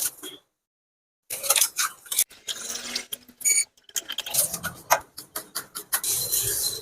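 Quick irregular clicks, clinks and scrapes of hand tools and small metal parts being handled in a water pump repair, with a brief squeak about three and a half seconds in.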